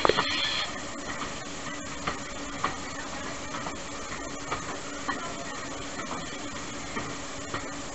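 Small tourist train running steadily along the track, heard from beside the carriage: a continuous rumble with a steady hum and an occasional click of the wheels over the rail. A brief hiss sounds at the very start.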